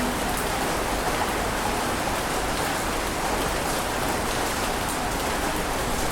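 Steady, even rush of water with a fine patter through it, holding one level without any rise and fall of separate waves.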